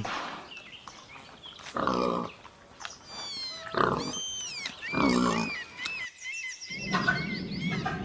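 Domestic pigs grunting: three separate grunts, about a second apart, with birds chirping faintly in the background.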